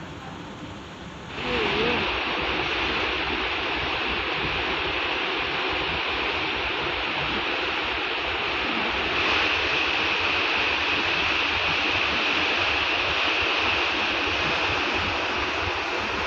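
Steady rushing of wind and sea water on a moving passenger ship. It cuts in abruptly about a second and a half in and holds even, growing slightly brighter about nine seconds in.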